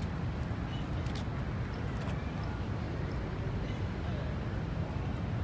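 Steady low rumble of background noise at an even level, with a few faint ticks.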